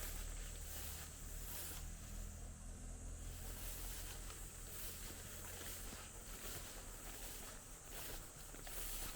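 Footsteps walking through a field, crunching and brushing against vegetation about once or twice a second, over a steady low hum.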